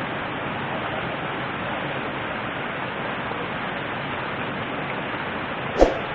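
Steady rushing of a river's flowing water, with one short sharp knock near the end.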